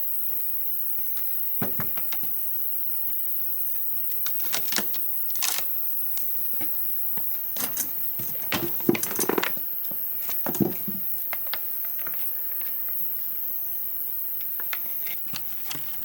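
Scattered, irregular knocks and clatters, with a busier cluster about halfway through, over a steady faint hiss.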